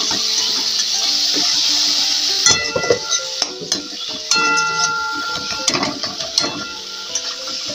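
Tomato masala sizzling in hot oil in a kadai as a metal spatula stirs and scrapes it. The sizzle dies down about two and a half seconds in, leaving scrapes and clinks of the spatula against the pan over soft background music.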